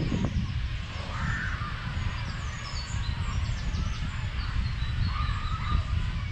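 Wild birds calling, with many short high chirps and two harsher, lower calls about a second in and near five seconds, over a steady low rumble.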